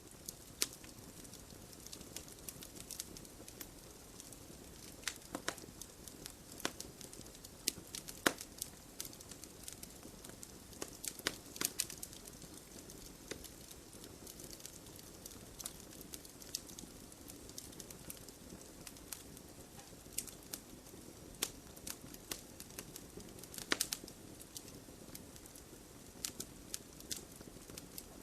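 Wood fire burning in a fireplace: a steady soft hiss of flame, with frequent sharp, irregular crackles and pops from the burning logs.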